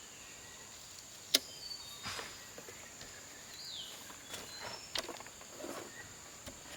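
Quiet outdoor ambience with a steady high insect drone, a single sharp click about a second and a half in, and faint scuffs and rustles of someone moving about.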